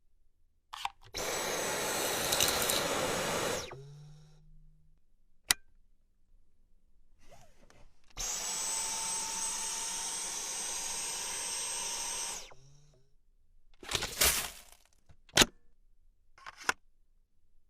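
Cordless stick vacuum running twice: its motor comes on with a rising whine and runs steady for about two and a half seconds, then again for about four seconds, each run cutting off sharply. A few sharp clicks and a brief rush of noise follow near the end.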